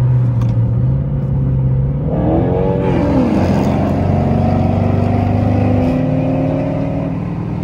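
Car engines running: a steady low V8 drone, then about two seconds in a second engine's note drops and climbs again as it revs and passes, holding a higher pitch until near the end.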